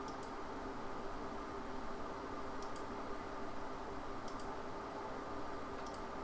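Four faint computer mouse clicks, about a second and a half apart, over a steady low hum of room and computer noise.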